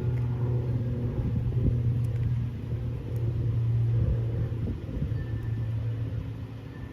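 A steady low motor or engine drone, swelling and easing every second or two.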